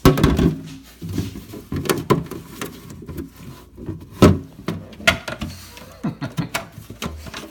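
Plastic refrigerator drawer being handled and slid, giving irregular knocks and rattles, loudest at the start, with one sharp knock about four seconds in.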